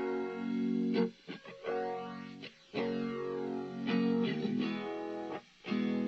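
Instrumental passage of a rock song: guitar chords ringing out, each held and then briefly cut off, with a few short breaks between them.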